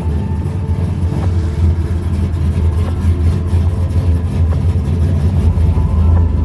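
Naturally aspirated LS1 V8 with a stage 4 cam, long-tube headers and a free-flowing exhaust, idling with a steady low rumble.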